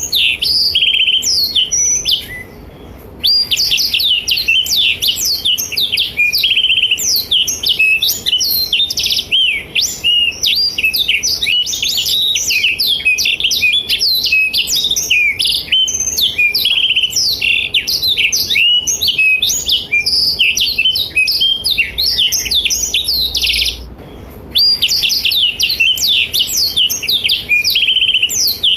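Black-throated canary (blackthroat) in full song: a long, fast, unbroken run of high twittering and trilling notes. It pauses briefly about two seconds in and again near twenty-four seconds.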